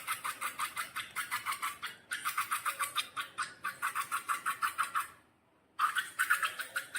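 Slime being worked, making quick wet, sticky clicks about six a second, in runs broken by a short pause about two seconds in and a longer one near the end.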